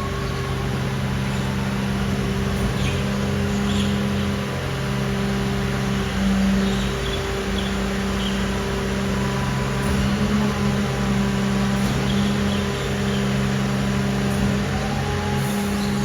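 Diesel engine of a Mercedes-Benz Arocs garbage truck running at a steady speed, with a constant hum and slight wavers in pitch.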